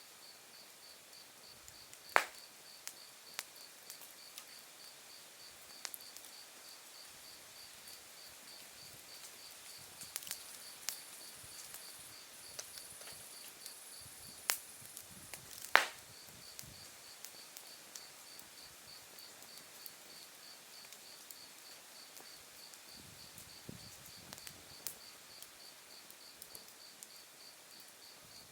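Wood fire burning down to embers, crackling with scattered sharp pops, the two loudest about two seconds in and around the middle. Under it, an insect chirps in a steady, high, evenly pulsed rhythm throughout.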